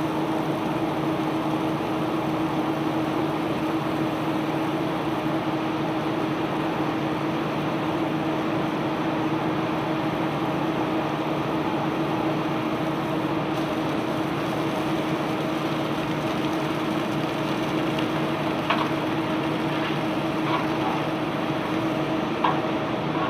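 Self-unloading barge's unloading machinery running steadily with a constant hum, and a few brief clicks in the last few seconds.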